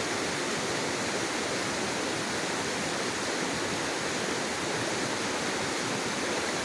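Creek water flowing, a steady, unbroken rushing sound.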